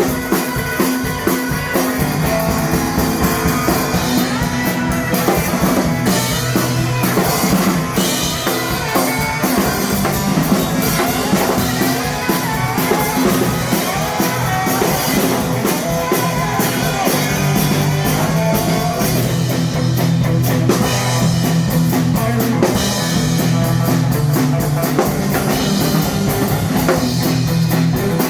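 Live blues band playing an instrumental passage, with drum kit and guitar.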